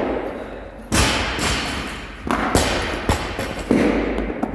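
A series of heavy thuds of weights being dropped on a gym floor during a CrossFit workout, the loudest about a second in and several more in the seconds after.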